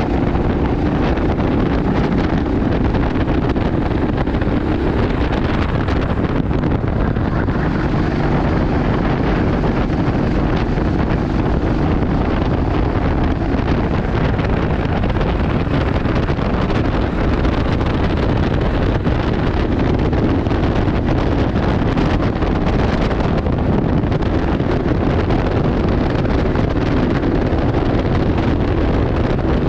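Go-kart engine running under heavy wind noise on the microphone: a steady, loud rush with no breaks.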